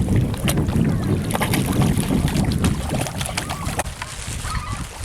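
Wind buffeting the microphone, a low rumble that eases after about three seconds, with scattered sharp clicks and splashy crackles over it.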